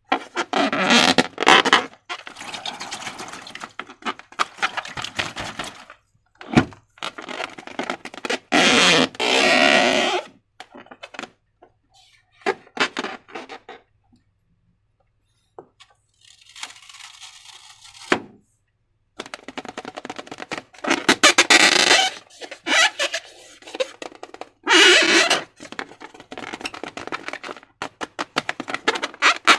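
Hands working slime and transparent balloons: irregular bursts of handling noise with sharp clicks and knocks, broken by a quiet pause about halfway through.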